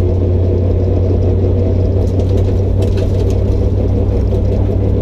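Ford 5.0 V8 with a cam and door-dumped longtube headers running at a steady speed: a loud, constant low engine note that does not rev up or down.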